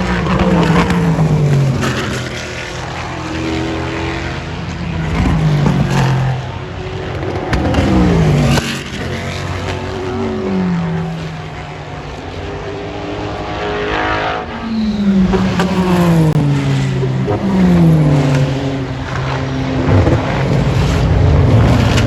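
Race cars passing one after another at speed, their engine notes loud and falling in pitch as each goes by.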